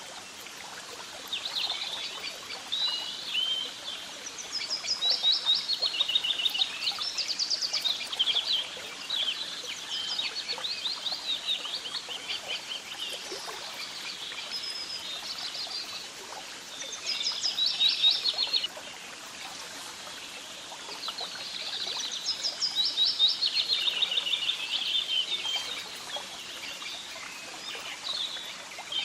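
Songbirds singing: fast runs of chirps and trills, coming in several bursts of a few seconds each, the loudest around the middle and again near the end, over a steady faint outdoor background hiss.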